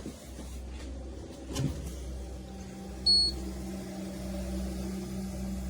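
One short, high electronic beep from an appliance control panel about three seconds in, over a steady low hum that starts shortly before it, with a soft knock a little earlier.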